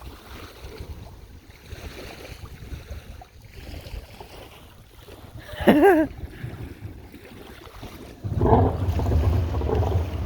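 Low rumble with wind on the microphone, a short wavering voice-like call about six seconds in, then a jet ski engine running close by, coming in suddenly and loudly about eight seconds in.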